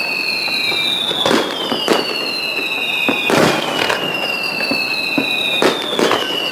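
Aerial fireworks display: several sharp bangs of shells bursting, over a series of high whistles that each glide slowly down in pitch and start one after another, roughly every one and a half seconds.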